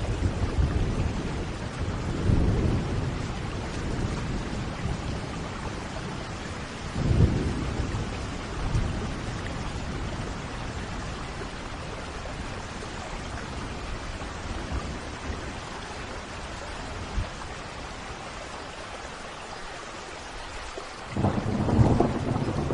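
Steady rain with rolling thunder: low rumbles swell near the start, at about two and a half and seven seconds, and a louder peal breaks near the end.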